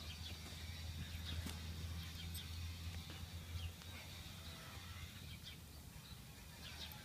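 Faint outdoor background: scattered bird chirps over a low steady rumble that eases off about halfway through.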